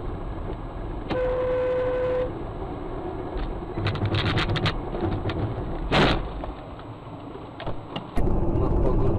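Car horn sounding one steady note for about a second near the start, over the low hum of a car's engine and tyres on the road. A few sharp knocks follow, then a louder single bang about six seconds in.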